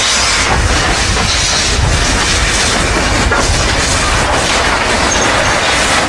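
Steam train running, a loud, steady, dense rush of mechanical noise.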